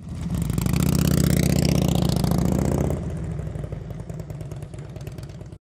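Motorcycle engine revving with rising pitch, then dropping back to a lower, steady, pulsing idle about three seconds in; the sound cuts off abruptly near the end.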